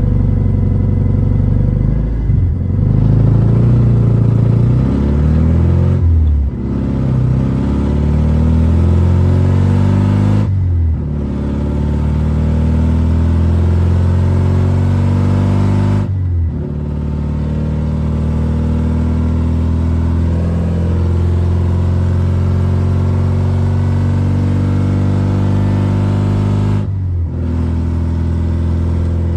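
BMW E36 engine accelerating through the gears of a manual gearbox, its pitch climbing and then dropping sharply at each of five gear changes. After the fourth shift it holds a longer, nearly steady pitch.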